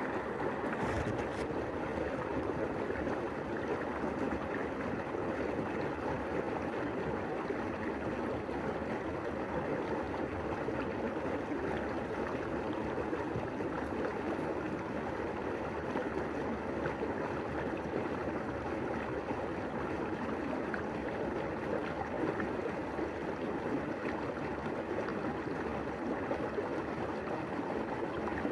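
Steady rushing of flowing stream water, an even wash of noise that stays at the same level throughout.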